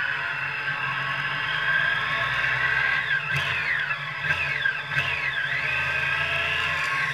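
Triumph sports motorcycle's engine running at low speed, heard through a camera mounted on the bike, with a steady hum and a whirring haze above it. A few falling whines cross it around the middle, as engine revs drop.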